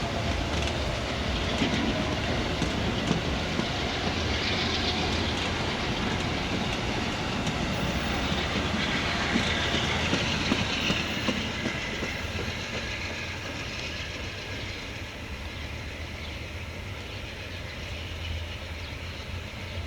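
Amtrak Northeast Regional passenger train pulling out and rolling past, its wheels clicking over the rail joints. The sound fades steadily over the second half as the train moves away.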